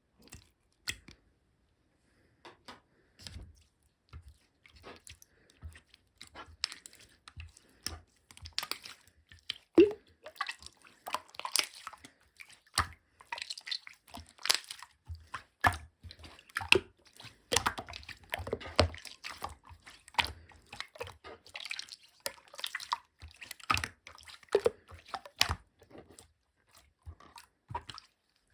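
Clear slime being squished and pressed by hand, giving irregular wet pops and clicks, sparse at first and coming thick and fast after the first few seconds.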